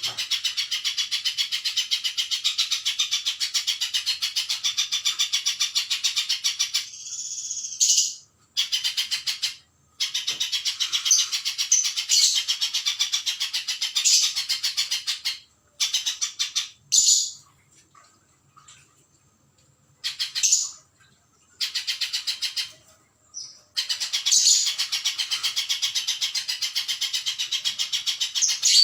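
Spiderhunter (pijantung) calling: long runs of rapid, evenly repeated high chirps, many notes a second, broken by a couple of pauses that hold only short separate phrases.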